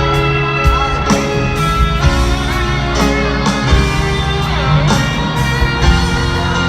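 Live rock band playing an instrumental passage led by guitar, with drums keeping a steady beat, heard loud through a concert arena's PA.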